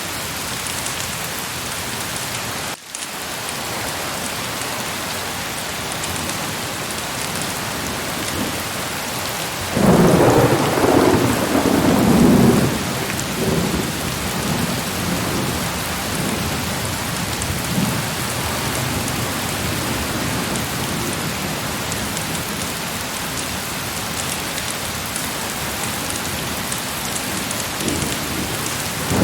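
Heavy rain falling steadily. About ten seconds in, a roll of thunder rumbles loudly for a few seconds, then fades away in lower rumbles. The rain cuts out for an instant about three seconds in.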